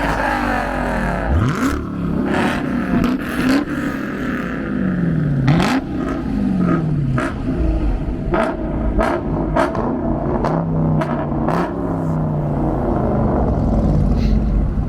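Car engines revving again and again over a low rumble, the pitch climbing and falling in short sweeps, with sharp pops scattered between the revs.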